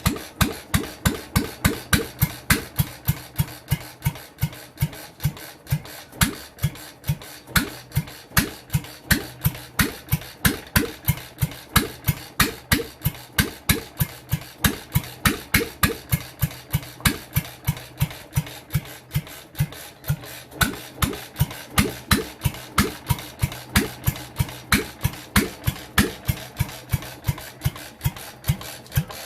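Sundial 2 hp Type B single-cylinder stationary engine running steadily, its exhaust beating about three times a second.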